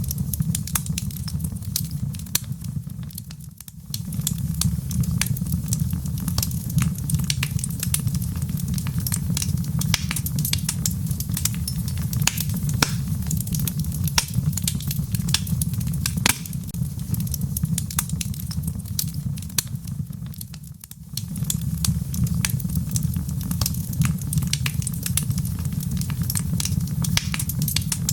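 Wood fire crackling with frequent sharp pops and snaps over a steady low rumble, with rain falling behind it. The whole sound dips briefly twice, about four seconds in and again about 21 seconds in.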